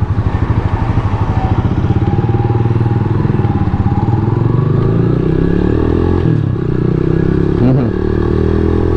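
Rusi Classic 250 motorcycle engine running under way, a steady pulsing exhaust note, with its pitch dipping and picking up again twice in the second half.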